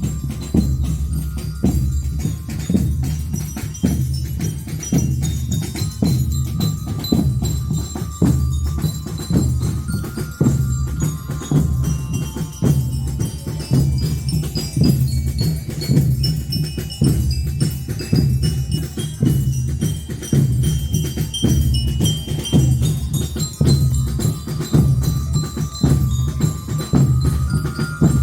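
A marching band playing, with bell lyres carrying a stepping melody over a steady, regular drum beat.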